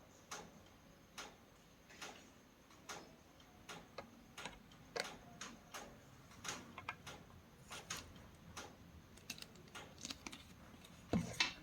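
Light clicks and taps from tools and small parts being handled, coming irregularly about once or twice a second, with a louder knock near the end.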